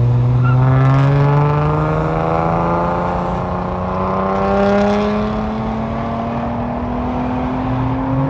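A car engine pulling under gentle acceleration, its pitch rising slowly and steadily throughout.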